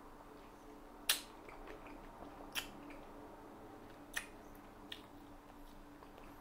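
Quiet mouth sounds of someone eating fruit: chewing with four sharp wet clicks of the lips and mouth, the first the loudest.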